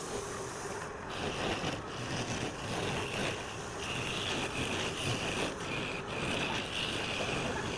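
Lathe turning tool cutting a spinning workpiece: a steady, hissy scraping that breaks off briefly several times as the tool leaves the surface.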